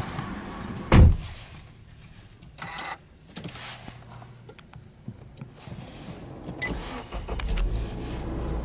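A heavy thump about a second in, like a car door shutting, then small clicks. About two-thirds of the way through, the Subaru Legacy Touring Wagon 2.0i's flat-four boxer engine starts and settles into a low, steady rumble at a raised idle.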